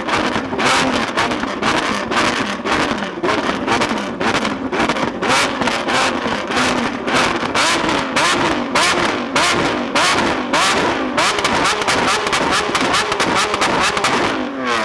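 Lamborghini Aventador SVJ's V12, through a Novitec exhaust, revved over and over with a dense, rapid string of pops and bangs from the exhaust.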